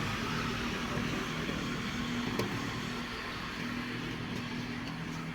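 A motor vehicle's engine running steadily, with a constant hiss of road or rain noise over it and one sharp click about halfway through.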